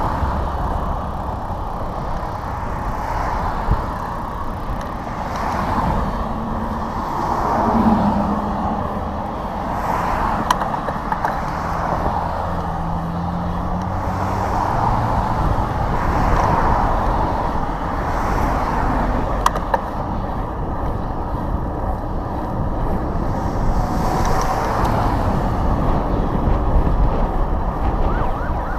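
Wind buffeting the microphone over the sound of road traffic, cars and trucks passing by.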